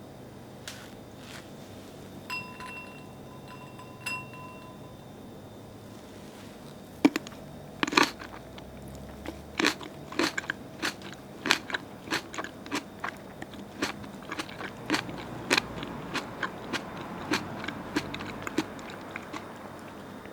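A short ringing chime, followed by a long run of irregular sharp clicks and crunches, about two or three a second.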